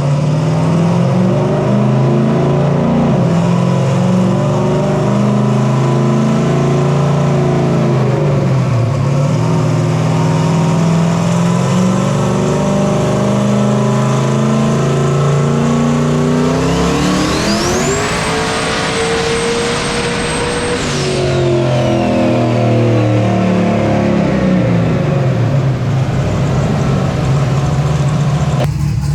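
Turbocharged Gen V LT V8 in a Silverado pickup running steadily, then revved a little past halfway and held for about three seconds with a high turbo whine, before dropping back as the whine winds down.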